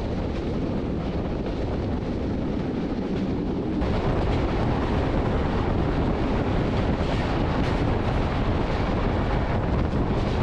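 Passenger train running at about 90 km/h, a continuous loud noise of wheels and coach on old, rough track. It gets louder about four seconds in.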